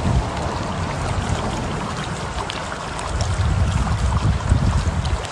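Rushing floodwater after heavy rain, a steady noise, with wind buffeting the microphone in a low rumble that grows stronger a few seconds in.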